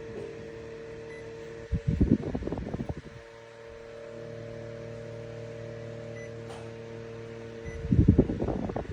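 Orteen 9-inch battery camping fan running with a steady motor hum. Twice, about six seconds apart, loud gusts of its airflow buffet the microphone.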